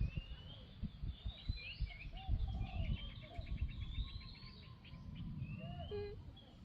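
Wild birds calling, with repeated rising whistled notes and a quick trill about three seconds in, over a low rumbling background noise.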